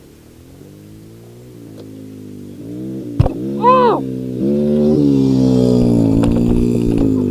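Dirt bike engine coming closer and growing louder, with a quick rev blip about halfway through, then running loud and steady close by.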